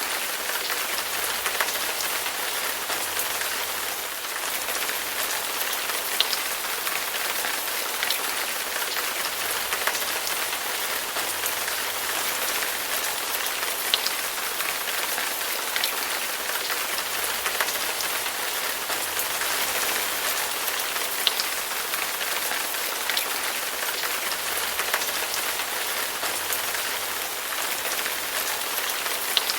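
Heavy rain falling steadily, an even hiss with scattered sharper drop ticks now and then.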